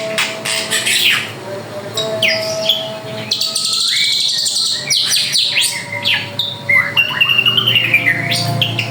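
Drongo (srigunting) singing a busy, varied song of quick whistles and down-sweeping notes, with a harsh rasping phrase about halfway through.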